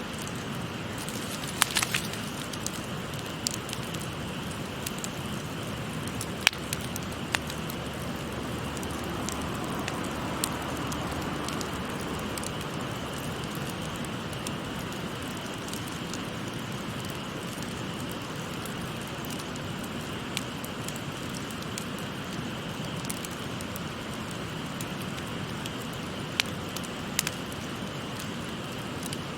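Wood fire crackling, with a dozen or so sharp pops, most in the first ten seconds and a few near the end, over the steady rush of a babbling stream.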